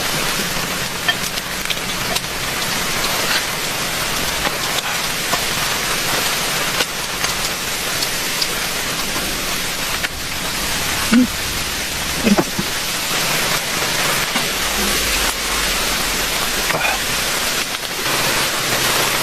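Heavy rain falling steadily, with scattered sharper ticks of individual drops striking a surface.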